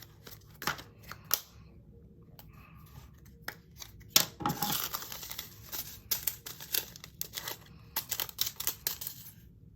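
Small plastic bags of diamond-painting resin drills being handled: crinkling, tearing or snipping open, and a patter of tiny clicks as the drills are poured into a plastic storage container.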